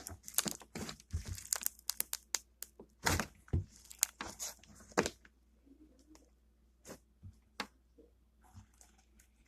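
Slime being squeezed and stretched by hand, with quick crackles, snaps and small air-bubble pops. They come thick for about five seconds and then thin out to a few single pops.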